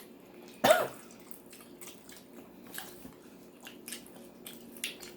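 Close-miked chewing of a spicy chicken sandwich: faint wet mouth clicks and smacks, with one short vocal sound about a second in.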